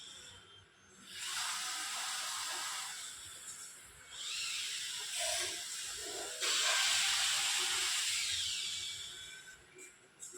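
InMoov robot's hobby servo motors whirring in three stretches of a few seconds each as the robot shifts its limbs to demonstrate its balance.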